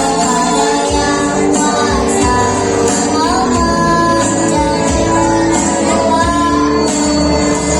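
A child singing a melody with held notes over instrumental accompaniment.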